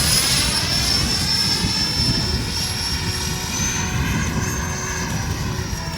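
Radio-controlled Kawasaki T-4 model jet flying on its 80 mm electric ducted fan: a steady high-pitched fan whine over a low rumbling noise. The whine's pitch rises slightly about two-thirds of the way through and falls again near the end.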